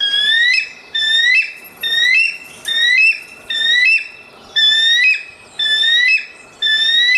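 A bird whistling a short rising phrase that steps up at its end, repeated about eight times, roughly once a second.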